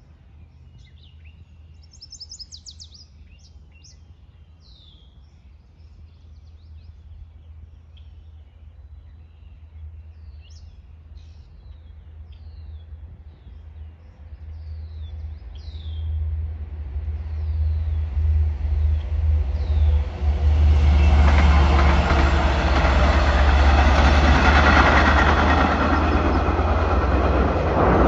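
Long Island Rail Road diesel-hauled train approaching over the bridge and passing, its rumble and rail noise growing louder over about seven seconds and staying loud from about three-quarters of the way in. Small birds chirp in the first half, before the train drowns them out.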